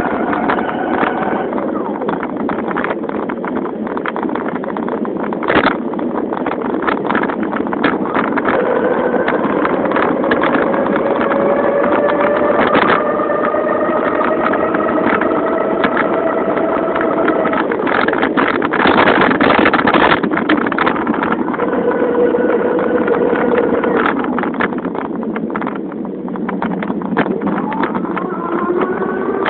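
Bicycle with a 1200 W Cyclone electric motor and a Turbo Spokes exhaust being ridden: a steady motor-like drone whose pitch slowly rises and falls with speed, with many rapid clicks and wind noise.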